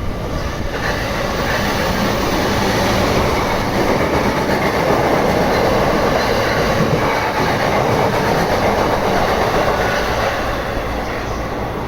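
Electric train running past on the line through the station, a continuous noise of wheels on rails that builds to its loudest around the middle and eases a little near the end.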